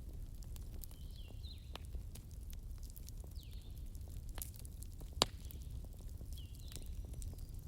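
Wood fire crackling in a fireplace: scattered small pops and ticks over a low steady rumble, with one sharp pop about five seconds in.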